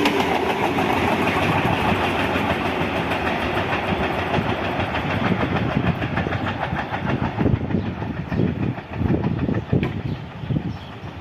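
Passing train, its wagons clattering over the rail joints in a steady rhythm, with a few heavier low thumps in the second half as the noise slowly dies away.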